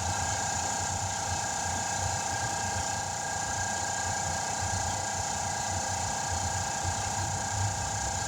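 Air compressor running steadily, with air hissing into a car tire that is being inflated to seal and seat its bead on the rim.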